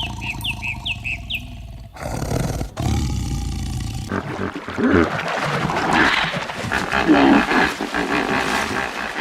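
Short high chirps in the first two seconds, then a big cat's repeated loud roars and growls through the rest.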